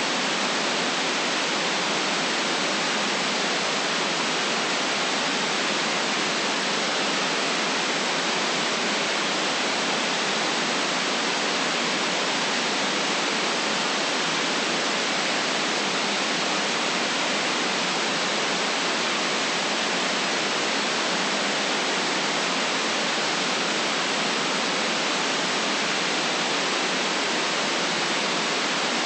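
Continuous white noise: an even, unchanging hiss cut off below the low bass and above the highest treble.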